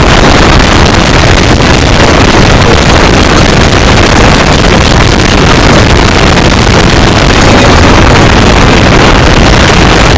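Car engine and wind noise heard from inside the cabin at speed, so loud that the recording is overloaded into a steady, distorted noise with no clear engine note.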